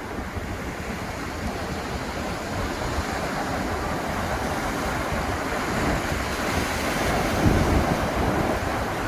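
Ocean surf breaking on a beach, a wash of noise that builds to a wave crashing about three-quarters of the way through, then eases; wind buffets the microphone with a low rumble.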